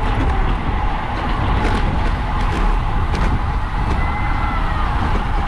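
Wind rushing over the microphone of a camera on a racing bicycle as the field rolls off at the start of a criterium, with a deep steady rumble and scattered sharp clicks.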